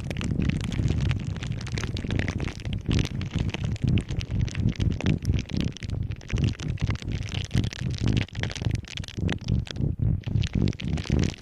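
Objects handled close to the microphone: a dense, irregular run of quick clicks and knocks over a low rumble.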